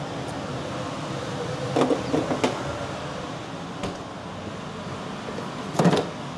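Steady whir of a central air-conditioning fan. Over it come a few quick clatters about two seconds in and a sharper knock near the end, like a dish or utensil being handled.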